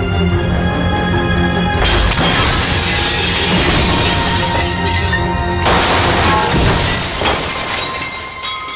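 Dramatic film score over the sound of glass shattering, which breaks in suddenly about two seconds in, with a second crash near six seconds.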